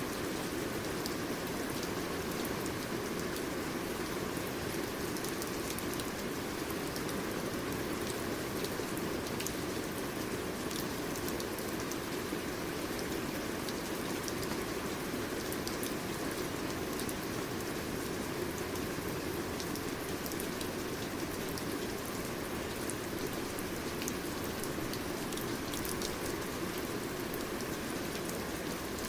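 Steady rain falling, with a dense hiss and scattered individual drop ticks on a surface.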